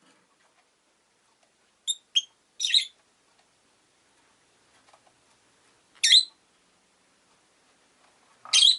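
Rosy-faced lovebird giving short, shrill, high-pitched calls: a quick pair about two seconds in, then single calls at about three, six and eight and a half seconds, the last the loudest.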